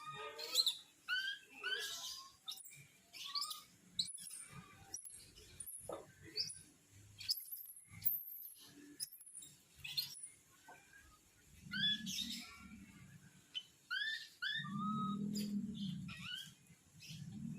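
Small young animals calling in a string of short, high-pitched rising chirps and squeals, the distress calls of a young animal stuck up on a motorbike's handlebars. A low hum swells and fades three times in the second half.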